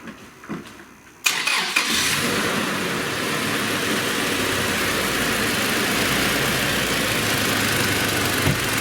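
Toyota Prado's 2TR four-cylinder petrol engine with dual VVT-i being started warm: a short crank about a second in, catching at once, then idling steadily. The mechanics hear nothing extraneous and judge it to run normally, with its VVT-i oil passages freshly cleared.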